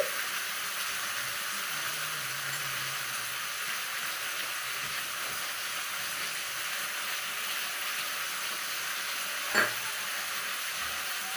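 Steady sizzling of food frying in a kadhai on a gas stove, with one sharp tap about nine and a half seconds in.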